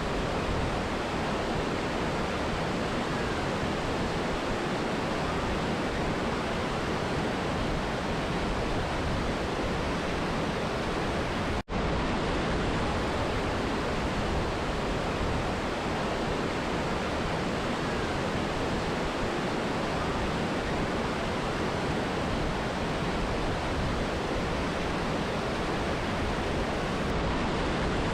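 Steady rushing of a mountain river and waterfall, an even roar of water. The sound cuts out for a split second about twelve seconds in, then carries on as before.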